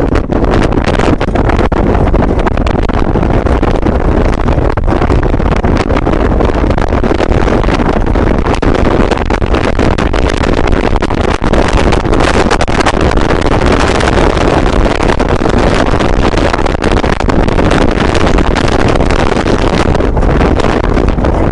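Loud, steady rumble of a moving vehicle with wind buffeting the microphone.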